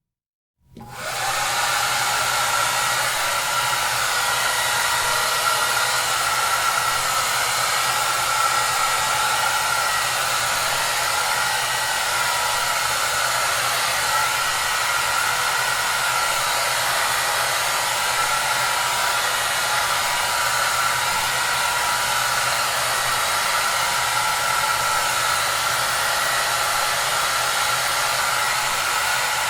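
Hair dryer starting up after a brief silence about half a second in, rising within a second to a steady whoosh of blown air with a constant motor whine and low hum.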